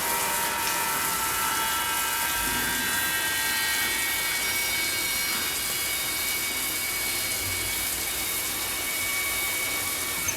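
Steady rushing of running water, like a spray or shower, with faint sustained tones over it.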